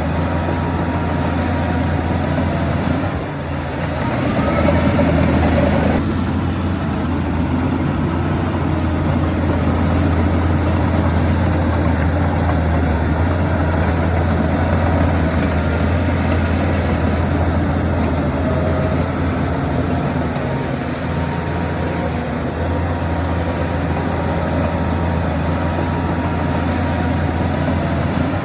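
Heavy earthmoving machinery's diesel engine running steadily with a low drone. The loudness dips briefly about three seconds in, and the sound changes abruptly near six seconds.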